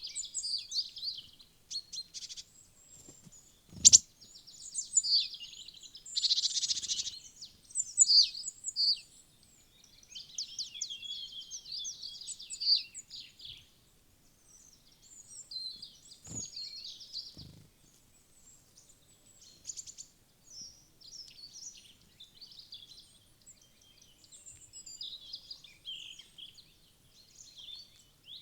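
Several small woodland birds chirping and singing, many high calls and trills overlapping. A sharp knock comes about four seconds in, and two fainter knocks follow around sixteen and seventeen seconds.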